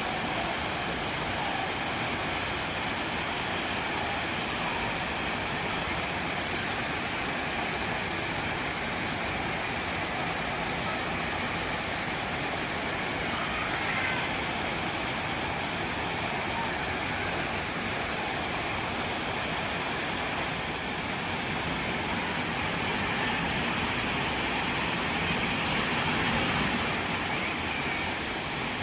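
Waterfall rushing in a steady, even roar of water that swells a little near the end.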